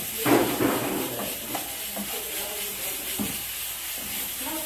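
Chopped collard greens sizzling in hot oil in a metal pan as they are stirred with a wooden spoon. There is a louder rush of stirring just after the start, then a steady sizzle with a few light knocks. The greens are being wilted.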